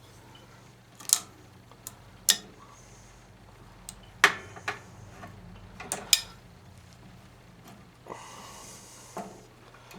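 A handful of scattered, sharp metal clicks and clinks from hand tools working at the fuel line clamp on a small-engine carburetor.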